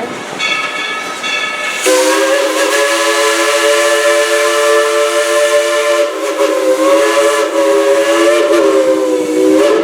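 Steam locomotive No. 70's multi-note chime whistle blowing one long blast, starting about two seconds in, with the hiss of steam through it; its pitch sags slightly just before it ends.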